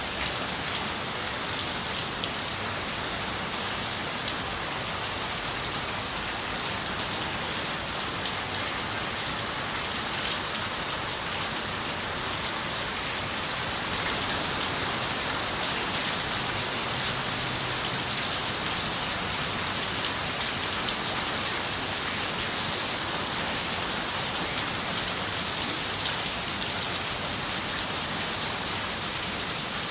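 Steady rain falling and pattering on a window, an even hiss with scattered small drop ticks, growing slightly heavier about halfway through.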